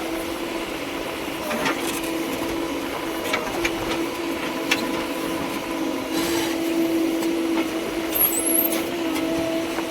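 Machinery engine running steadily with a constant hum, with a few short knocks over it.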